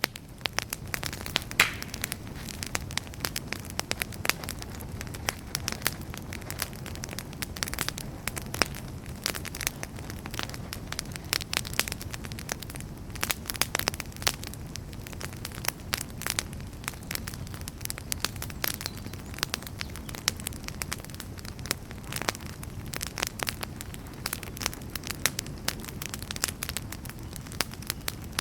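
Wood campfire burning, with constant irregular crackling and sharp pops over a low steady flame rush; one louder pop comes about a second and a half in.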